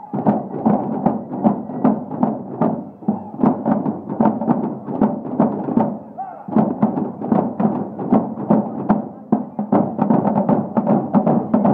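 Marching drums beaten in a steady rhythm of several strikes a second, breaking off briefly about six seconds in.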